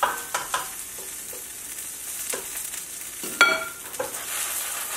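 Seafood pancake batter sizzling in oil in a frying pan over low heat, with a few light clicks and scrapes of a utensil in the pan. About three and a half seconds in comes a louder metallic clink that rings briefly.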